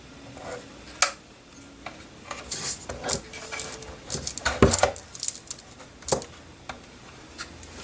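Irregular light clicks and taps of small plastic parts and cable connectors being handled while the motor cables are connected inside a drone's body, with a couple of sharper knocks a little past the middle.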